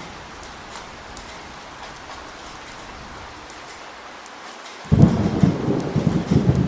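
Steady heavy rain hissing, then about five seconds in a sudden loud thunderclap breaking into a crackling low rumble.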